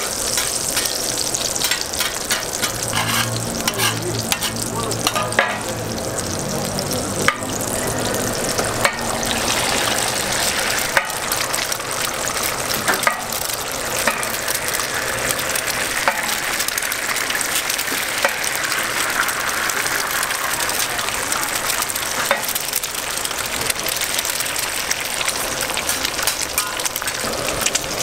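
Burger patties and fried eggs sizzling steadily in oil on a flat-top steel griddle, with occasional sharp clicks and taps of metal on the griddle.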